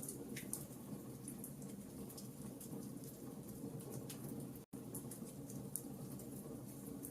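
Wood fire crackling: scattered sharp pops and ticks over a steady low rumble of burning, with a brief cut to silence about two-thirds of the way through.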